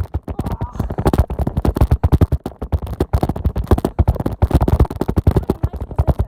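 An old bicycle rattling and knocking as it rolls over rough ground, picked up by a phone mounted on its handlebars: a rapid, irregular clatter of jolts.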